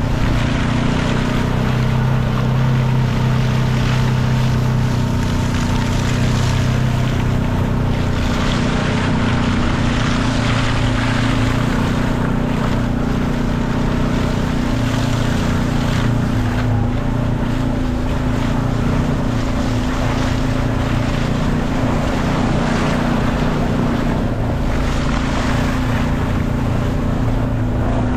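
Side-by-side UTV engine running steadily while driving, with a rushing noise over it.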